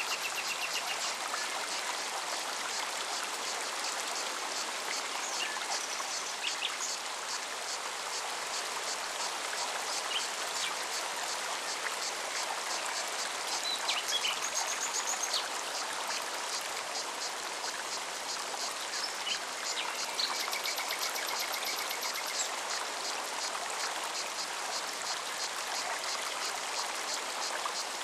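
Mountain stream running steadily over rocks, with a cicada's high song of rapid, evenly spaced pulses above it. Short bird chirps and trills come in a few times.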